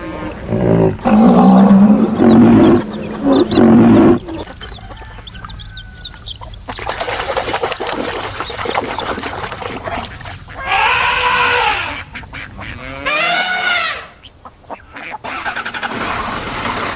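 Recorded animal call sound effects, one animal after another: loud, deep roars in the first four seconds, then shorter cries that rise and fall in pitch about ten and thirteen seconds in.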